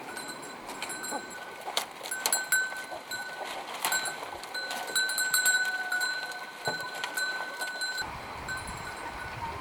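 Goats bleating in a farmyard, with a few sharp knocks.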